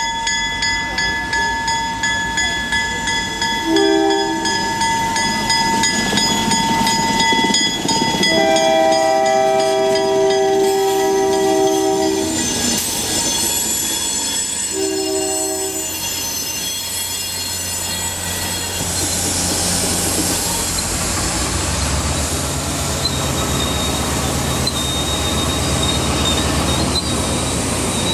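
Passenger train horn sounding three blasts, short, long, short, over a level-crossing bell ringing. The train then runs in with a deep rumble of wheels on rail, and a thin high wheel squeal comes in near the end.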